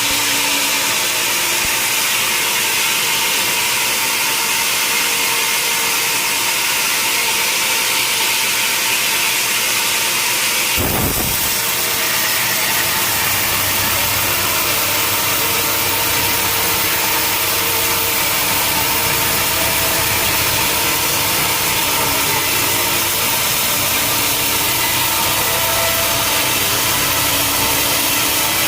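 Sawmill saw running and cutting through a log: a loud, steady hiss of the blade in wood over the machine's hum. There is a short knock about eleven seconds in, after which a deeper hum comes up.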